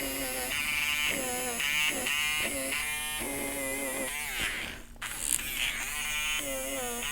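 Battery-powered electric eraser buzzing in short on-off runs as it lifts colour off the page to make small white highlight dots in the fur, its pitch dropping and recovering each time the tip is pressed to the paper and lifted.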